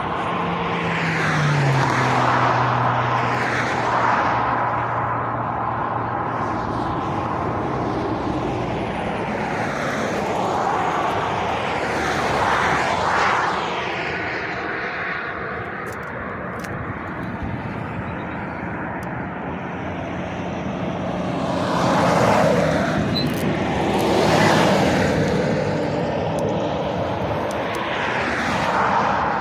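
Road traffic passing close by, one vehicle after another, with the tyre and engine noise swelling and fading about six times. About a second in, a heavy lorry's engine note drops in pitch as it goes past.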